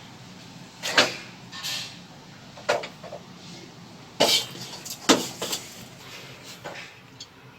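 Irregular knocks, clatters and short scrapes of hands-on work, about seven sharp hits spread over several seconds, the loudest about one, four and five seconds in, over a low steady hum.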